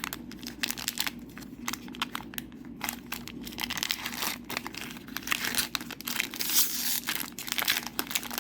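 Wrapper of a trading card booster pack crinkling and crackling as it is torn open by hand: irregular sharp crackles, densest about five to seven seconds in.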